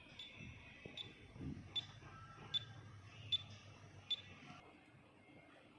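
Short, high electronic beeps repeating about every 0.8 seconds, six in all, with a faint low hum under the middle of the run.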